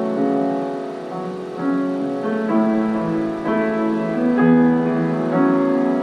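Slow piano music: held chords with new notes entering about every half second to a second.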